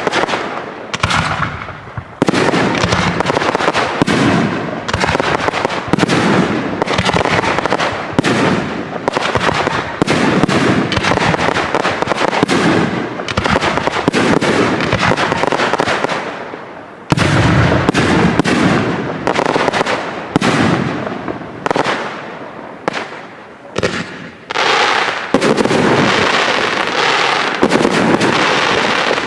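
Aerial display fireworks: a dense, continuous barrage of shell bursts and crackling, with a sharp heavy bang about 17 seconds in and a slightly thinner spell a little after.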